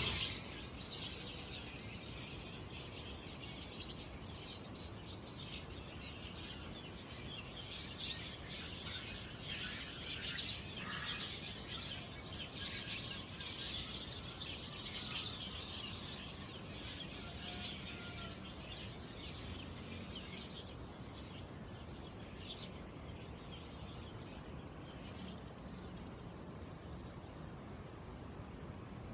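Many caged songbirds chirping and twittering together, with a steady high-pitched trill behind them.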